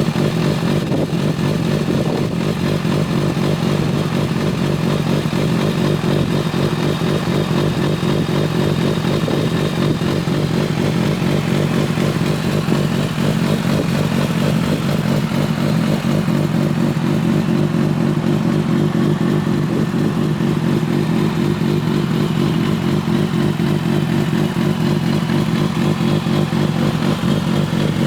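A 2011 Kawasaki ZX-6R's inline-four engine running at a steady idle through an Arrow slip-on exhaust.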